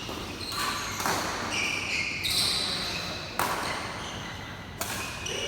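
Badminton rally: rackets striking the shuttlecock about once a second, five sharp hits, with shoes squeaking on the court floor between them.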